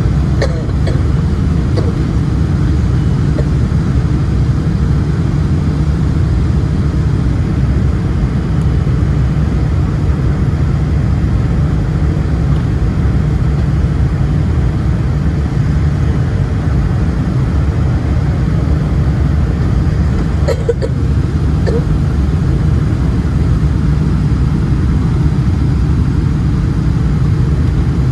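Steady low rumble inside the passenger cabin of a Boeing 747-400ER airliner, from its General Electric CF6 engines and the airflow over the fuselage. A few faint clicks come through about half a second in and again around twenty seconds in.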